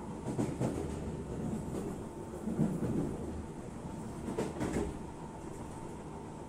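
A passenger train running on its track, heard from inside the carriage: a steady rumble with several irregular clacks and knocks.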